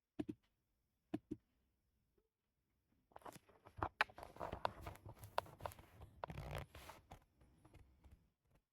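A few sharp clicks, then about five seconds of rustling and scraping with many clicks mixed in, starting about three seconds in.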